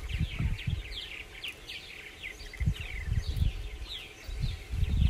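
Small birds chirping steadily: many short, quick notes, each sliding down in pitch, several a second. Underneath, irregular low dull thumps.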